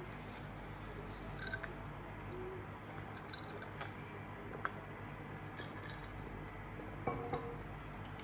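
A person eating: a few short, sharp clicks and crunches, such as a spoon tapping a plate and bites of crisp vegetables, spread out over a steady low hum.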